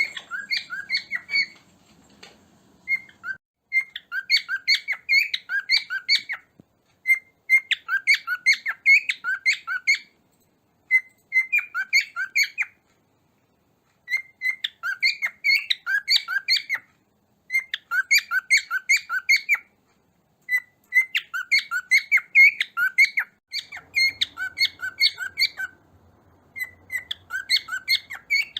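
Cockatiels chirping: bouts of rapid, short, high chirps, each bout lasting a few seconds, with brief silent gaps between them.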